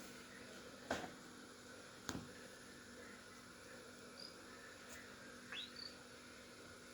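A cockatiel giving a soft short chirp and then a brief rising whistle, with two sharp faint clicks a little more than a second apart before it, over a low steady hum.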